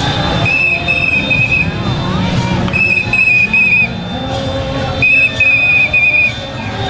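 A whistle blown in three trilling blasts of about a second each, over a steady background din.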